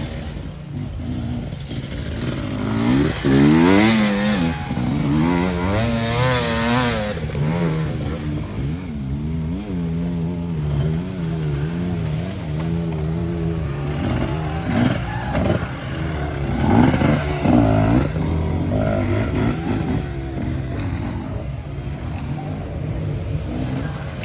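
Off-road racing engines on a dirt course, revving up and down as the riders work the throttle. There is a loud run of wavering revs a few seconds in, and another burst of revving in the second half, over a steady engine drone.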